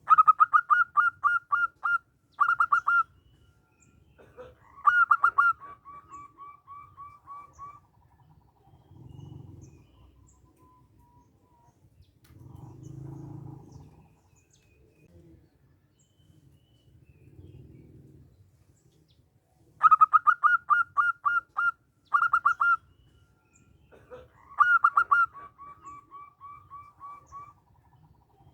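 Zebra dove (perkutut) singing: two song bouts about twenty seconds apart. Each is a fast run of loud, clipped notes, then a trailing string of softer notes. Faint low sounds come between the bouts.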